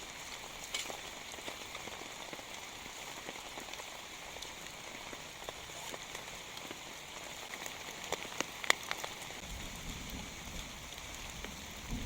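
Steady rain falling, an even hiss with scattered drops ticking sharply, a few louder ones about eight to nine seconds in. A low rumble joins near the end.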